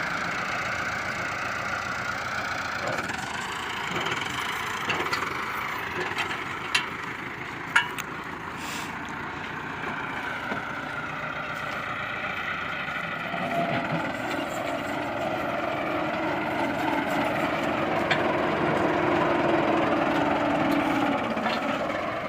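Tractor engine driving a wheat thresher: a steady machine drone, with two sharp knocks about a third of the way in. The running note grows heavier and louder from a little past the middle.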